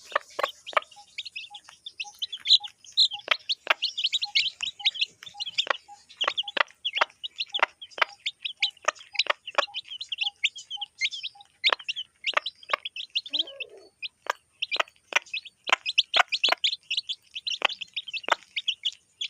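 Chicks peeping: a busy, continuous run of short high chirps, several a second.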